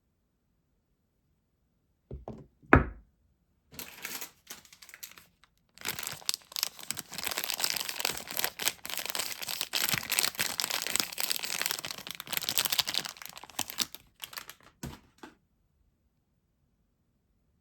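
Two sharp knocks, then a soap bar's wrapping being torn open and crinkled off in a long, dense crackle that stops abruptly near the end.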